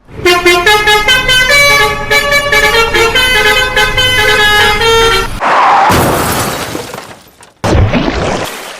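A musical vehicle horn playing a quick tune of stepped notes for about five seconds, followed by two bursts of rushing noise.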